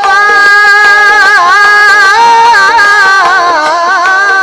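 Marathi devotional bhajan singing: one voice sings 'Vithoba' and holds a long, ornamented note that wavers and slides in pitch, over a steady held accompaniment.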